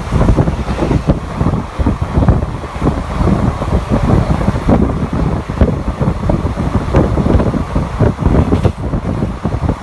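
Black Diamond Express passenger train running at speed: a loud, steady rumble with frequent irregular knocks, and wind buffeting the microphone.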